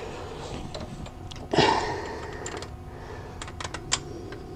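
Metal hand tools being handled under the car: a clunk about a second and a half in, then a quick, irregular run of sharp clicks near the end, like a socket and extension knocking together.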